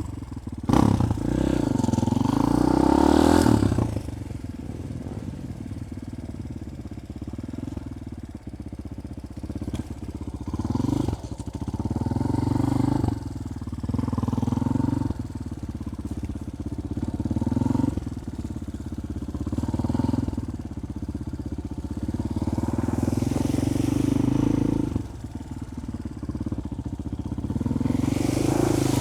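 Four-stroke carburetted Kayo enduro motorcycle engine idling and being revved in short blips every few seconds, the biggest rev about a second in. It picks up cleanly with no stumbles, misfires or backfires, running well straight out of the box with the valves and carburettor never adjusted.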